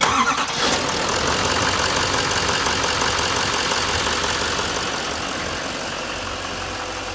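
A 6.6 L LML Duramax V8 turbodiesel in a 2016 GMC Sierra 2500HD comes in suddenly and idles, easing slightly in level over the next few seconds.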